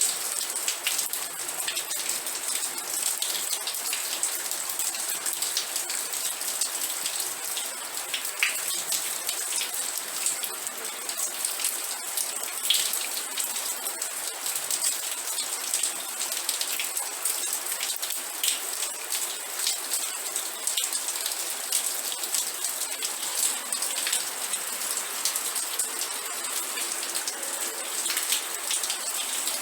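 Steady rain falling on a surface, with a constant patter of many individual drops ticking through it.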